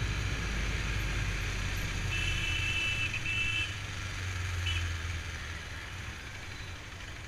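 KTM Duke motorcycle engine running at low speed as the bike slows in traffic, with road and wind noise, the engine sound easing off in the last couple of seconds. A high steady beep sounds for about a second and a half about two seconds in.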